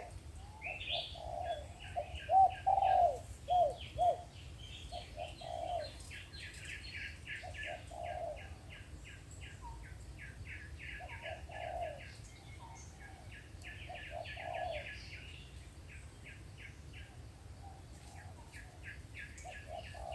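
Spotted doves cooing in a series of low, repeated coos, louder over the first four seconds and fainter after: a wild dove calling back and forth with a caged decoy. A rapid run of high chirps from another bird goes on behind them.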